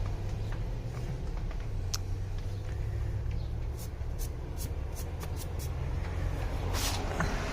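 Steady low engine rumble, like a vehicle idling, with scattered light clicks and a short rustling burst near the end.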